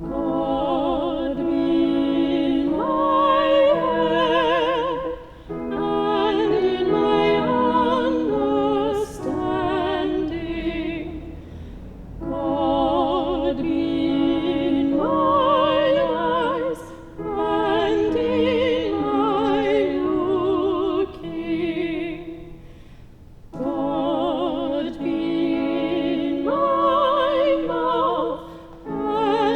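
Several trained voices singing in parts with strong vibrato, in sung phrases separated by short breaks about every five to six seconds.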